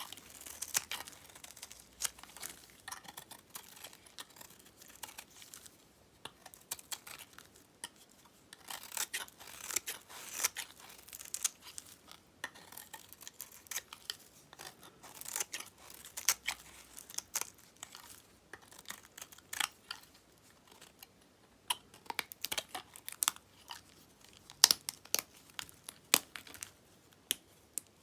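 Dyed soap being cut with a knife: many short, crisp crackling cuts in irregular clusters, with brief pauses between them.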